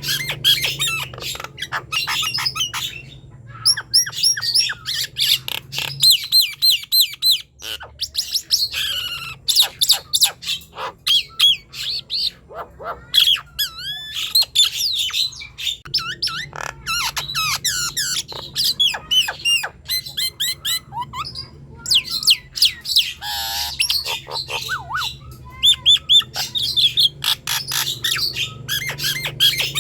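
Nias hill myna in full song: a rapid, varied stream of loud whistles, chirps and sharp clicks, the pitch sliding up and down from call to call, with only brief pauses.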